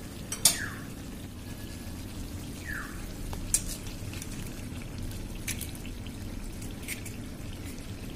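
Oil and onion-tomato masala frying gently in a kadhai over a lowered flame, with scattered small drip-like pops and a few sharp clicks, the loudest about half a second in, as an egg is cracked straight into the pan.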